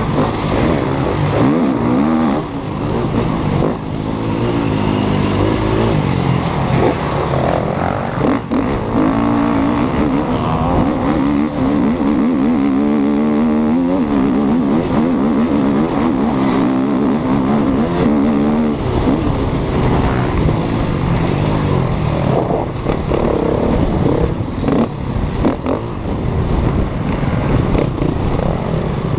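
KTM 250 EXC-F single-cylinder four-stroke enduro bike engine under way on a dirt track, its pitch rising and falling repeatedly as it is revved and shifted through the gears.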